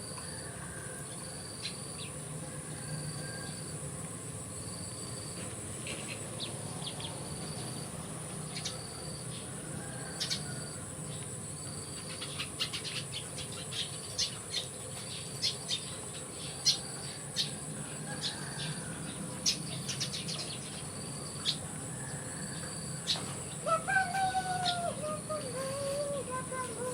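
Steady high insect drone with a short high chirp repeated about every second and a half; a run of sharp clicks and chirps in the middle, and a squeaky gliding voice near the end.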